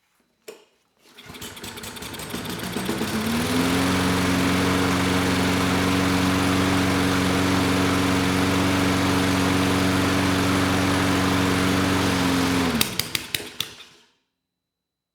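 Toro Recycler mower's Kohler XTX675 single-cylinder engine catching on the first pull, climbing to speed over about two seconds and running steadily. When the bail is released it runs on for a moment and then sputters and pops for about a second before stopping, which the owner takes for backfiring or the flywheel brake forcing the engine to a stop.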